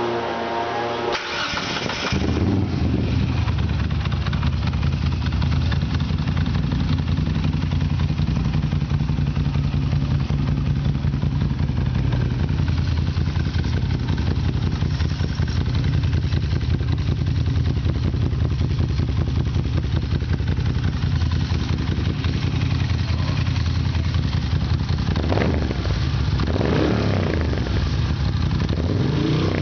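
Moto Guzzi V7 III's air-cooled transverse V-twin being started on its Agostini Mandello exhausts with the dB killers out: the starter turns for about a second, the engine catches about two seconds in and settles into a deep, steady idle. Near the end the throttle is blipped two or three times, the revs rising and falling quickly.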